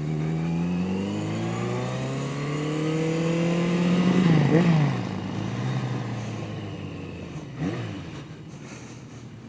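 Yamaha 750 Seca's inline-four engine pulling under acceleration, its pitch rising for about four seconds, then dropping as the throttle eases and running quieter toward the end.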